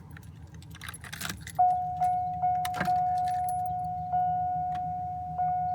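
Keys jangling and clicking, then a 1991 Buick Park Avenue's dashboard warning chime starts about a second and a half in: one steady tone, struck again every second or so, each strike fading slowly, as the key goes into the ignition before cranking.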